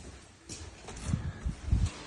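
Washing machine knocking, a run of heavy low thuds that grow louder, the loudest near the end.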